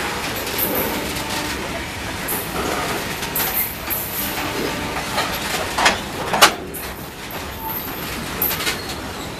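Loaded freight train wagons rolling past close by: a steady rumble and clatter of wheels on rail, with a few sharp clanks, the loudest two a little after six seconds in.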